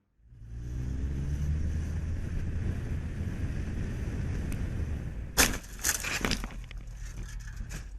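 Car running along the road, its engine note rising at first, then a sudden collision about five and a half seconds in: several loud bangs and crunches over about a second, with another knock near the end.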